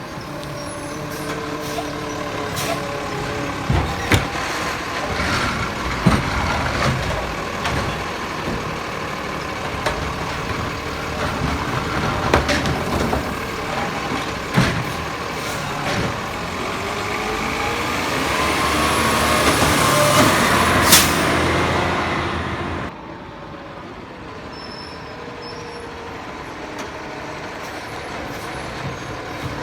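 Diesel McNeilus Zero Radius garbage truck running, with scattered sharp knocks and clanks. About two-thirds of the way through, a louder rush of noise builds over a few seconds and then cuts off suddenly.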